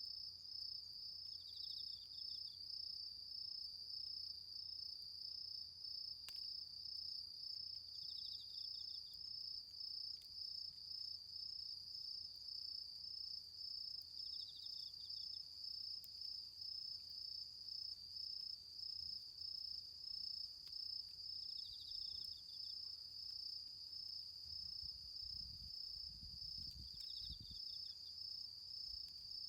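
Autumn insects calling: one gives a continuous, finely pulsing high trill, while another adds a short chirp about every six seconds. A few faint ticks sound now and then, and a low rumble comes in near the end.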